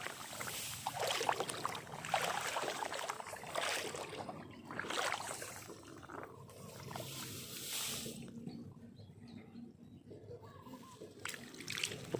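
Water sloshing and splashing in irregular bursts, quieter for a few seconds after the middle.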